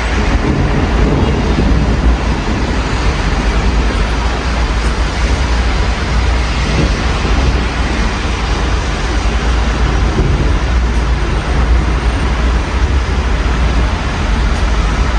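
Steady rain falling, mixed with the low rumble of city road traffic, heard through an open window.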